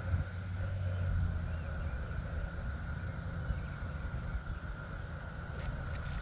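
Cicada chorus making a steady, unbroken drone, over a louder low rumble. A click near the end.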